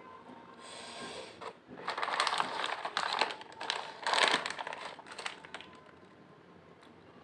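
Close-up crunching of Lay's potato chips being chewed: a run of crisp, crackly bites and chews, loudest in the middle and dying away near the end.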